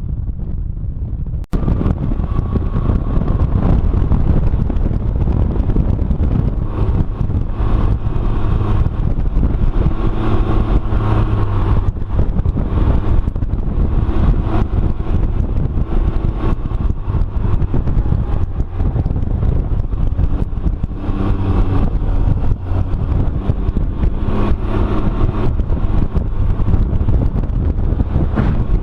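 Can-Am Ryker three-wheeler under way: steady engine drone mixed with wind rushing over the microphone. There is a brief dropout about a second and a half in, after which it runs a little louder.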